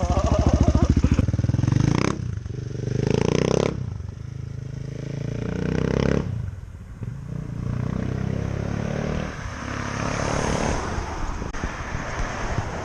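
Husqvarna 701's single-cylinder engine running through an Akrapovic exhaust with its dB killer removed, revved up and dropped back a few times, then running more steadily.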